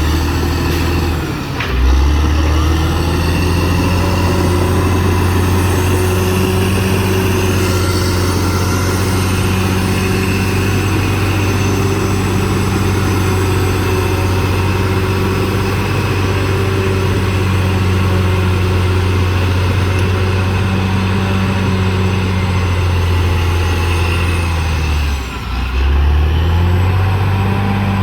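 CAT D6R XL bulldozer's diesel engine running steadily under work. The engine note dips briefly and picks back up twice, about a second and a half in and near the end.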